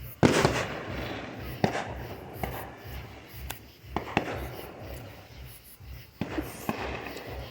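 Fireworks going off: a loud bang right at the start, then scattered sharper and fainter pops and cracks every second or so.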